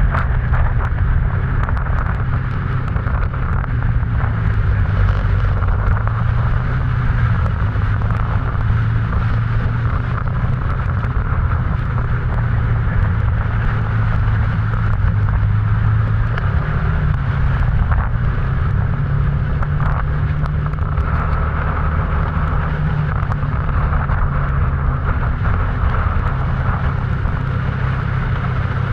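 Motorcycle engine running at steady speed while riding, its low drone shifting slightly in pitch, under a constant rush of storm wind and rain noise on the action camera.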